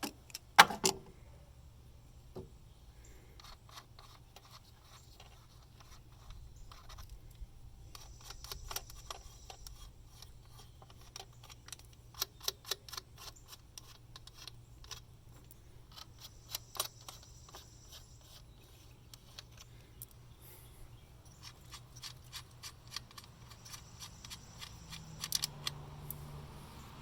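Socket ratchet clicking in several quick runs, with light metal clinks and rubbing between them, as 10mm bolts are undone with a long socket.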